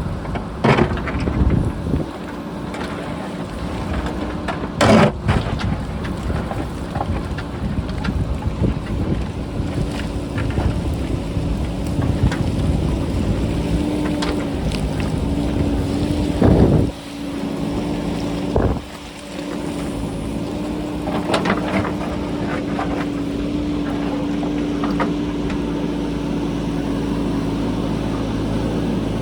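Diesel engine of a JCB backhoe loader running steadily, with wind buffeting the microphone and several sharp knocks and clatters of rock scattered through.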